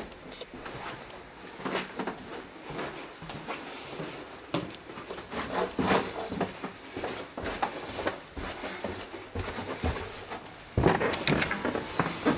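Scattered clicks, knocks and rustles of someone moving about and handling things in a small room. Near the end the sound steps up to a louder, steady rush.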